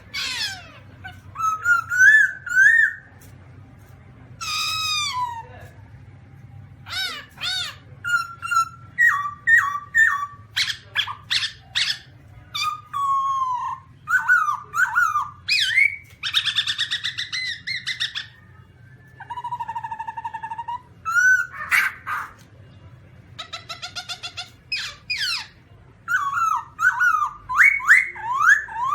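Black-throated laughingthrush singing: a long, varied run of loud whistled notes and phrases, many sliding up or down in pitch, mixed with short repeated notes and a harsher, rasping call in the second half.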